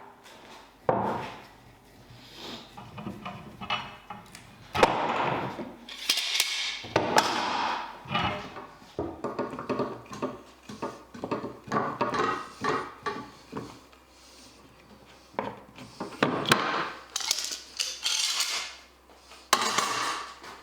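Wooden boards and hand tools being handled on a workbench: a string of irregular knocks and clatters, with several short rasping passes of about a second each.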